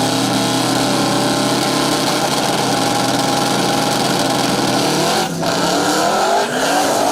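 Drag racing car engine held at steady high revs, then accelerating hard about six seconds in, its pitch rising.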